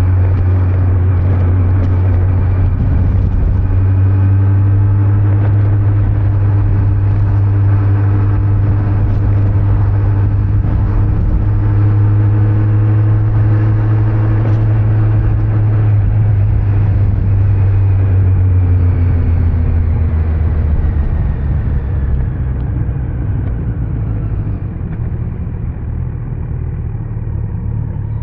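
Kawasaki Z900 inline-four engine cruising on the road at a steady pitch, with wind and tyre noise. About two-thirds of the way through, the engine note and loudness fall away as the bike slows.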